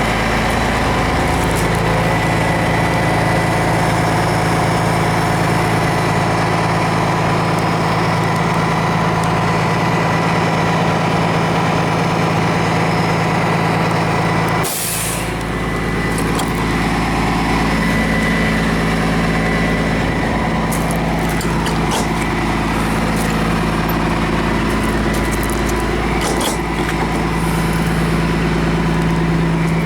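Cummins ISM turbo diesel engine of a 2003 Blue Bird LTC-40 coach running steadily, with a short burst of air hiss about halfway through.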